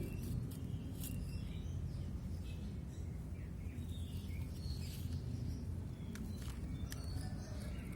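Outdoor background noise: a steady low rumble with faint, scattered bird chirps and a few light clicks.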